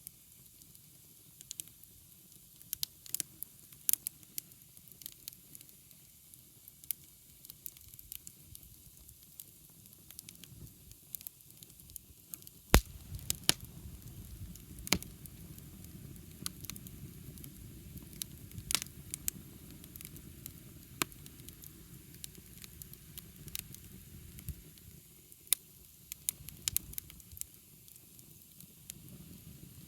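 Wood fire burning, with scattered sharp crackles and pops over a steady hiss. After a loud pop a little before halfway, a low rumble of flame comes up and eases off again in the last few seconds.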